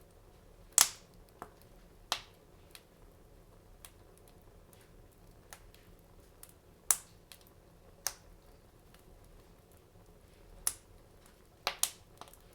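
Wood fire crackling in a fireplace: sharp pops at irregular intervals, the loudest about a second in and near seven seconds, and a quick cluster of pops near the end.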